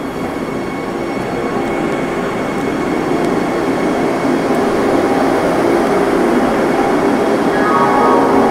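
Train running noise: a steady electric hum and rumble with a few steady tones, growing gradually louder.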